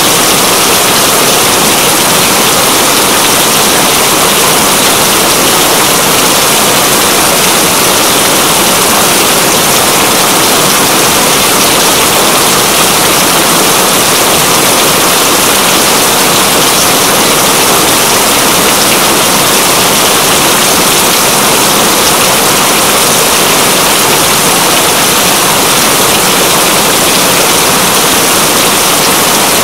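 Heavy, steady rain: a dense, even hiss of falling water.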